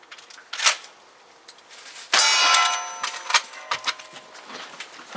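A shot strikes a steel target, which rings with a bright metallic clang about two seconds in. A shorter sharp crack comes about half a second in, and light clicks follow the ring.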